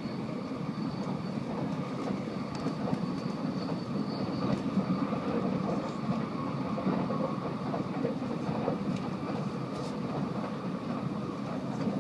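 Steady running noise inside the cabin of a Tokaido Shinkansen bullet train travelling at speed: a low rumble with a faint high whine above it.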